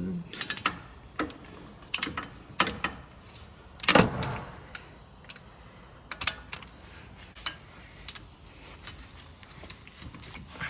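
Metal hand tools and parts clinking and knocking against each other, a scatter of separate sharp clicks with one louder ringing metal clank about four seconds in.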